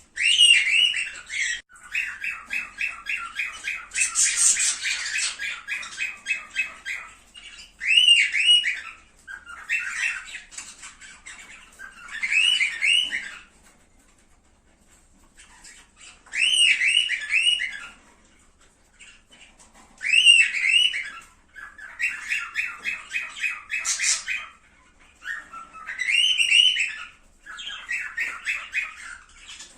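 Cockatiels calling: repeated short whistled calls that bend up and down, broken by fast chattering runs of notes and a few short pauses.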